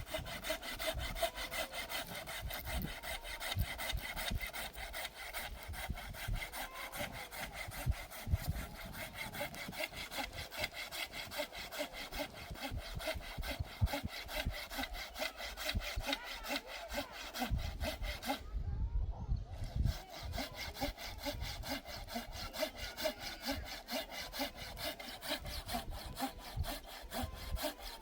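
Wood being cut with a hand saw: steady back-and-forth strokes in an even rhythm, with a pause of about a second about two-thirds of the way through.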